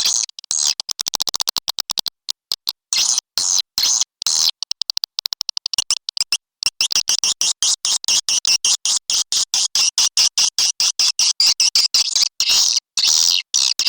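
Swiftlet calling sound, the lure played to draw edible-nest swiftlets into a nest house: rapid trains of high chirps and clicks, some runs very fast and rattling, broken by short gaps, with a denser stretch of chirping in the second half.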